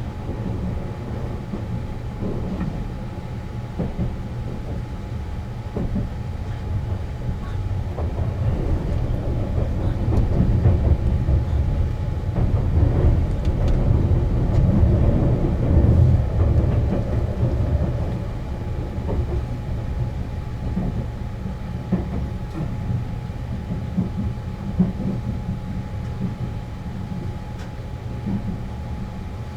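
Sunrise Express 285-series sleeper train running: a steady low rumble with a constant hum and scattered clicks from the wheels and track. It swells louder through the middle, then eases off.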